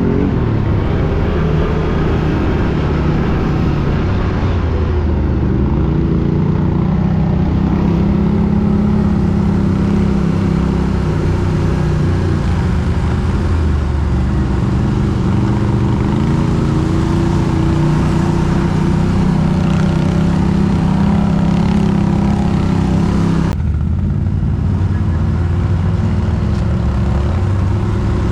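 ATV (quad bike) engine running under load, its revs rising and falling as it works over rough ground, with an abrupt change in the sound about 23 seconds in.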